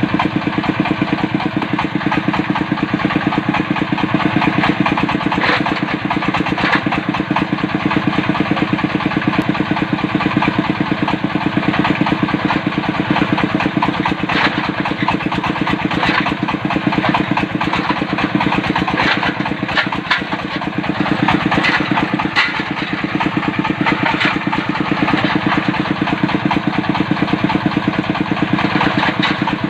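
Diesel engine of a water-well drilling machine running steadily under load, with a fast, even firing beat. Short, higher rattles come through now and then.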